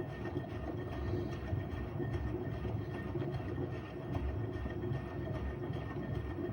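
Washing machine running: a steady low rumble with an uneven pulsing and a faint steady hum over it.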